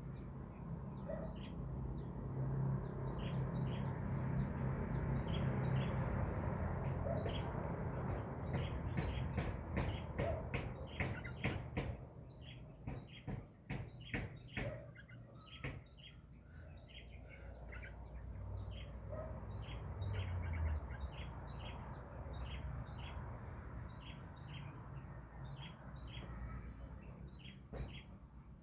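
Bulbuls chirping: short, repeated chirps throughout, over a low background rumble. A run of sharp clicks comes in the middle.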